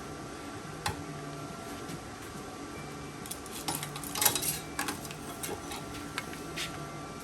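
Light metallic clinks and knocks, clustered about three to five seconds in, the loudest just after four seconds, over a steady low hum.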